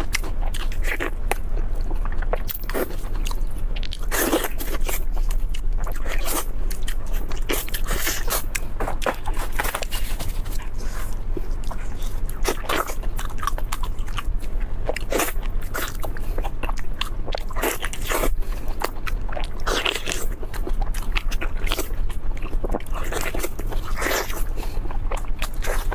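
Close-miked crunching bites and chewing of fried beef knee cartilage: a dense, irregular run of sharp crunches. A steady low hum runs underneath.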